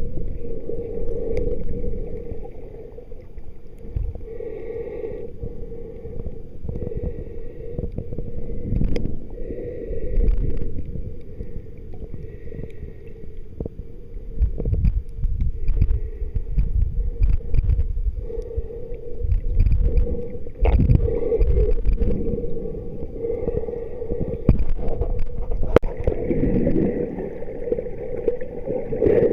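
Water sloshing and gurgling with uneven low rumbles that swell and fade, over a steady low hum.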